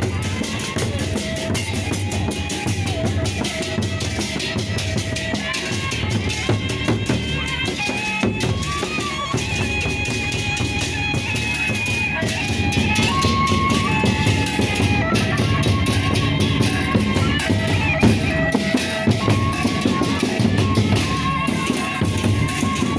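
Gendang beleq, the Sasak gamelan of big barrel drums and clashing cymbals, playing in procession: dense, fast drum and cymbal strikes under a sustained melody that moves in held steps.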